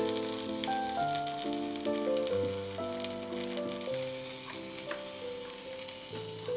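Piano music over food sizzling and crackling in a frying pan.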